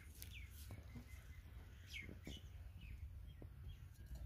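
Faint bird chirps: a few short, falling calls, spaced out, over a low steady rumble.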